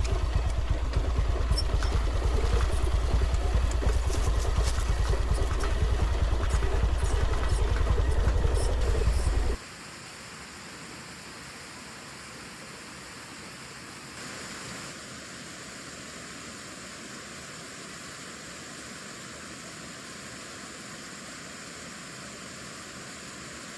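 Motor vehicle rumble with rattling, as from riding over a rough track, cutting off abruptly about ten seconds in. After that comes a steady faint hiss.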